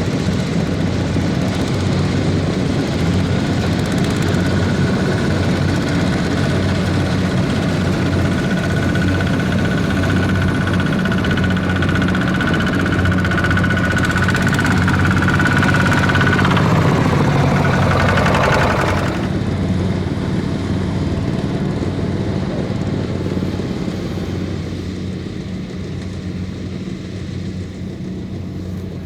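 Kubota ZT155 single-cylinder diesel engine of a small farm tractor running steadily under load, with a whine on top. A little past halfway the whine drops in pitch and fades, and the engine eases off, growing quieter toward the end.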